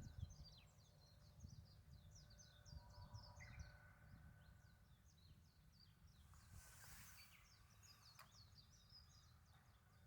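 Faint chorus of small birds chirping: many quick, high notes sweeping downward, over a low rumble. A brief hiss comes about seven seconds in, and a click follows a second later.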